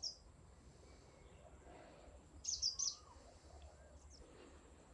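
Quiet outdoor background with a bird calling: a quick run of three or four high chirps about halfway through, and a single chirp right at the start.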